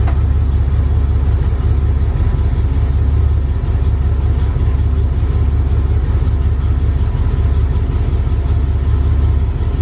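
1966 Ford F250's original 352 cubic-inch FE V8 with a two-barrel carburetor running steadily, a deep, even low rumble with no revving.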